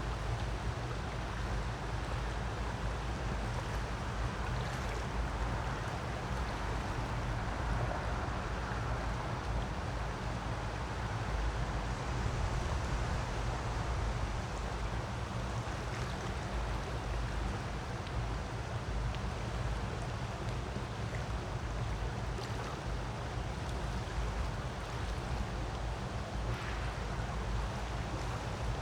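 Creek water rushing in a steady, unbroken wash of noise with a heavy low rumble underneath.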